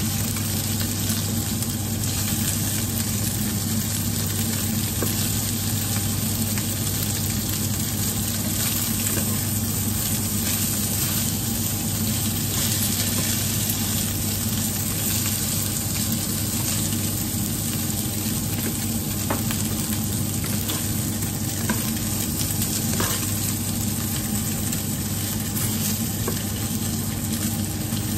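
Stuffed tofu puffs sizzling in oil in a nonstick wok as a wooden spatula stirs and turns them, with a few light spatula clicks in the second half. A steady low hum runs underneath.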